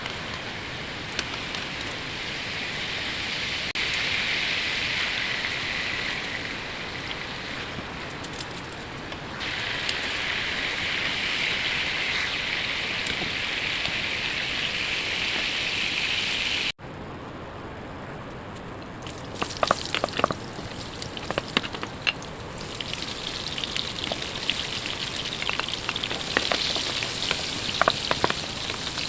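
Chicken masala sizzling and frying in a pan: a steady hiss. Just past halfway it cuts off abruptly, then returns quieter with frequent sharp clicks of a utensil stirring against the pan.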